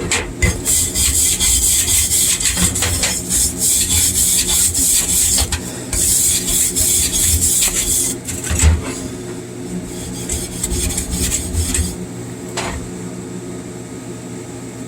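Slag being chipped and scraped off a 6013 stick weld: a rapid, irregular run of metallic scraping and tapping that eases off after about eight seconds, leaving a few lighter strokes and one sharp tap, over a steady low hum. The 6013 slag is the easy-chipping kind.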